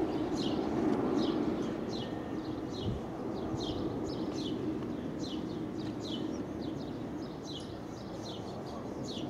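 A bird chirping over and over, short falling chirps about two or three a second, over a steady rumble of traffic.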